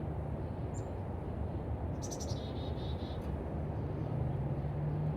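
A small songbird gives a short chirp, then sings one phrase about two seconds in: a high note that drops into a quick run of lower notes. A steady low rumble with a hum runs underneath.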